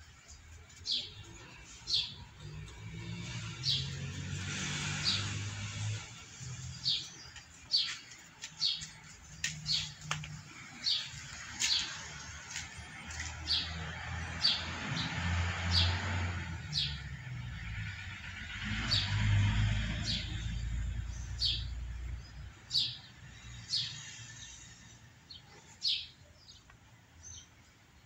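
Caged birds chirping: short, high chirps repeated every half second to a second, with a low rumble swelling in the background twice.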